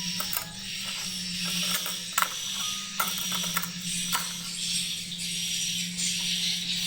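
Swiftlets chirring and clicking continuously in a swiftlet house, over a steady low hum, with a few sharp clicks about two, three and four seconds in.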